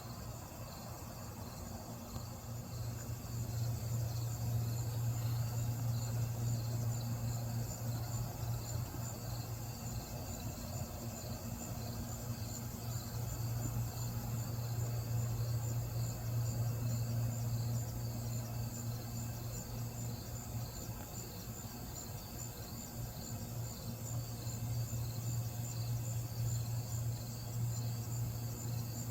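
Night insects, such as crickets, chirping steadily in an even pulsing rhythm, two pitches at once, over a steady low hum.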